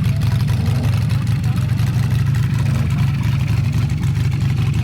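A motorcycle engine idling steadily, with an even low note.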